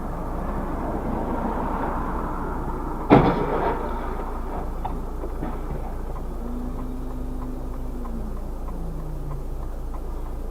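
Steady car driving noise recorded by a dashcam, with one sudden loud bang about three seconds in.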